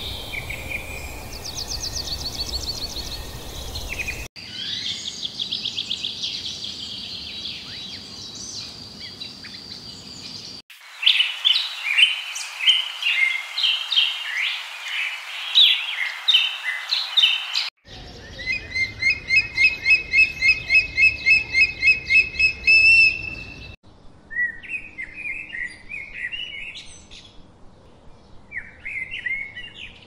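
Birdsong from several different recordings joined end to end, each switching abruptly to the next every few seconds: chirps and twittering calls, and in one stretch a fast, evenly repeated series of notes at about four a second.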